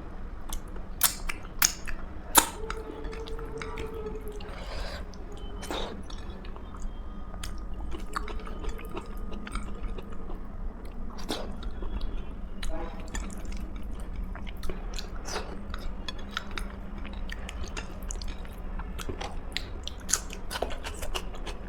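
Close-up chewing and mouth sounds of someone eating a meal, with frequent sharp clicks and small crunches between the chews, over a steady low hum.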